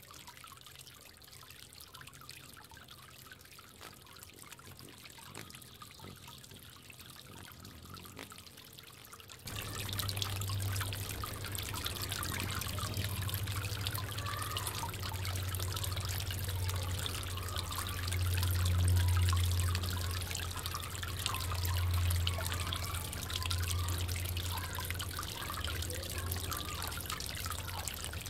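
Water trickling in a bird bath, which suddenly gets louder about nine seconds in, joined by a low hum that swells and fades.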